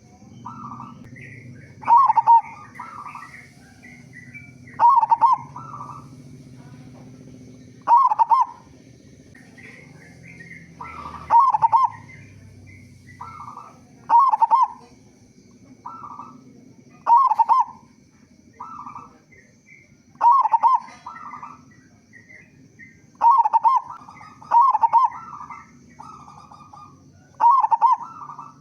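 Zebra dove (perkutut) cooing: a short phrase of rolling coos repeated about every three seconds, about ten phrases in all. Faint chirping from other small birds between the phrases.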